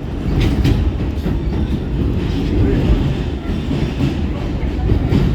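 R46 subway car running along the track, a steady heavy rumble with a few sharp clicks of the wheels over rail joints.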